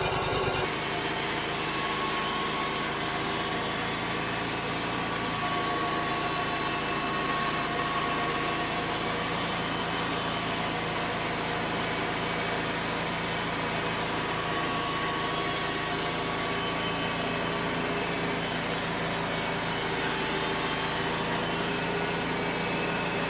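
Engine-driven bandsaw mill's blade cutting steadily along a cedar flitch, the mill's engine running under the saw noise. The cut is straightening a board's edge that is bowed from a knot.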